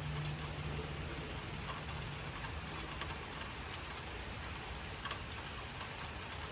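Steady light rain falling, an even hiss with scattered drops ticking on surfaces.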